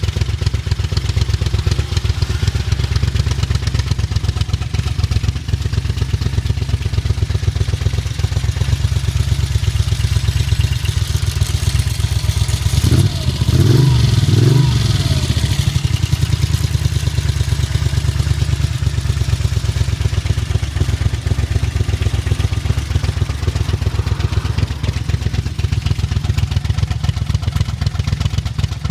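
Magni Arturo 1000 motorcycle engine idling steadily, blipped up in revs twice in quick succession about halfway through before settling back to idle. It is running again after more than a decade laid up.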